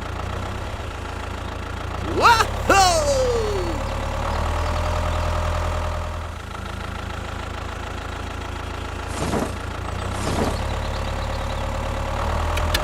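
A small engine idling steadily. A little after two seconds, two pitched sounds slide up and then down, and around nine and ten seconds in there are two short hissing bursts.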